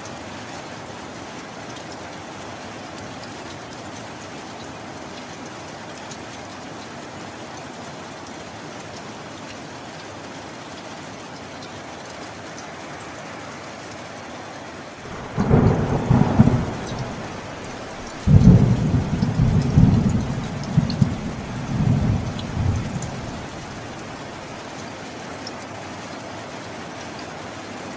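Steady rain, with thunder just past halfway: a short clap, then a few seconds later a louder, longer rumble that rolls on for several seconds and dies away.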